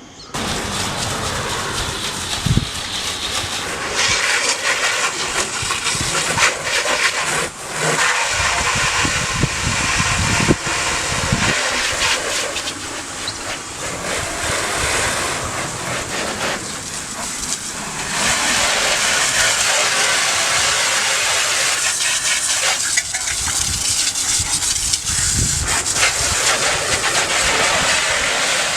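Water spraying from a hose-fed washing gun with a soap canister, a steady rushing spray that eases and picks up again several times.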